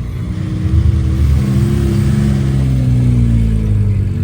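A car engine gets louder and rises in pitch about a second in, then slowly falls again over the next couple of seconds, as a car revs or drives past.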